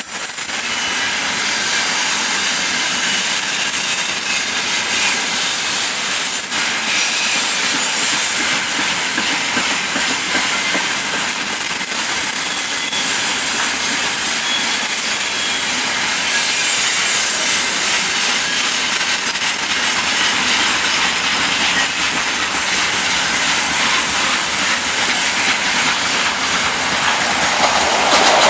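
Coal train's open gondola wagons rolling past, a steady rolling noise and hiss of steel wheels on rail. Near the end the noise grows louder as an EP20 electric locomotive with a double-deck passenger train comes up on the nearer track.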